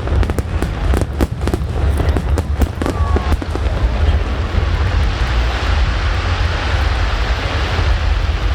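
Aerial fireworks going off: a quick run of sharp bangs and reports for the first three seconds or so, then giving way to a dense, steady crackle. A low rumble runs under it all.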